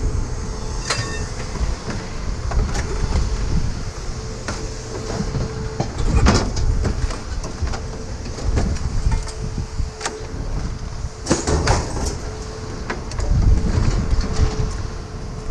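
Metal scrap being handled: sharp clanks and knocks, several of them a few seconds apart, over a steady low rumble and a faint steady hum.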